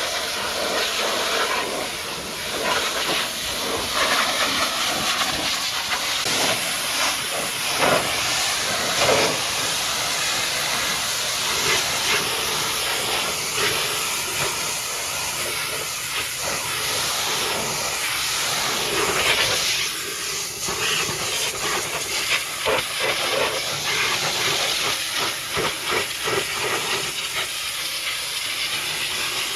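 High-pressure washer jet spraying water against a mud-caked dump truck: a steady loud hiss of spray and splatter that swells and eases as the jet moves.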